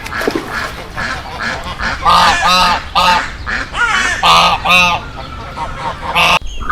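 A flock of farm waterfowl calling: many short, loud, honking calls from several birds at once, overlapping in quick succession. The calls break off abruptly just before the end.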